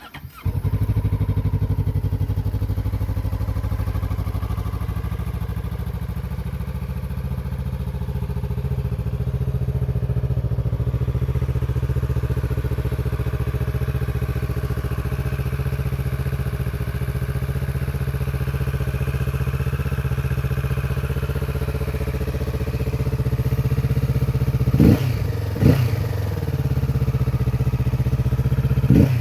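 Kawasaki Z650RS's parallel-twin engine starting, then idling steadily. Two quick throttle blips come about 25 seconds in, with another near the end.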